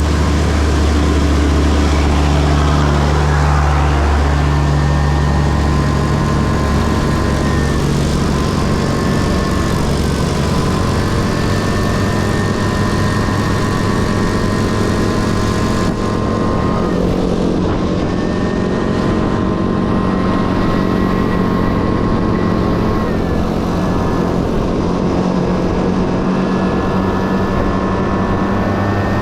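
Honda Dio AF18's 50 cc single-cylinder two-stroke engine running under way. Its pitch dips and climbs back several times as the throttle is eased and reopened.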